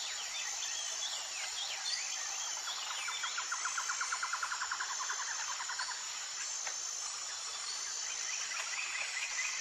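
Tropical forest ambience: a steady high-pitched insect chorus, with bird chirps in the first couple of seconds. A fast rattling trill swells and fades from about three to six seconds in, and another pulsed call comes in near the end.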